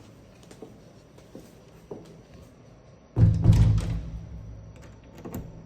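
A few light taps, then about three seconds in a loud, low thud that runs on as a rumble and dies away over a second or two.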